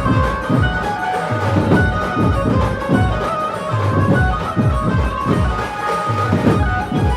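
A dhumal band playing loud through a big sound system: heavy, steadily repeating drumbeats with a sustained melody line over them.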